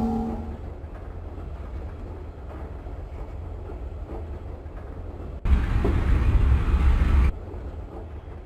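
Lisbon Metro ML90 train running with a steady low rumble; a pitched whine dies away in the first half second. About five and a half seconds in, a loud rushing noise starts suddenly, lasts about two seconds and cuts off just as sharply.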